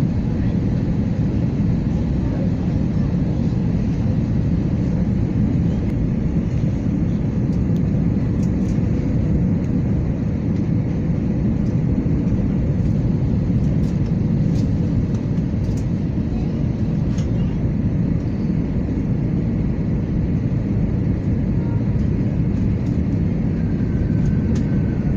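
Steady cabin roar of a Delta Airbus A321-200 in flight: engine and airflow noise heard from a window seat, deep and unchanging.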